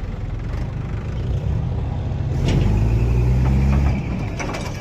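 Mahindra tractor's diesel engine running, getting louder between about two and a half and four seconds in and then easing back, with a thin high steady whine over the louder stretch.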